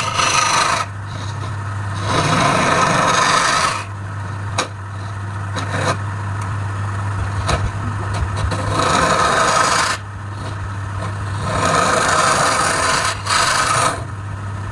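Wood lathe running with a steady motor hum while a tool rasps against the spinning workpiece in repeated passes, several of them louder for one to two seconds each.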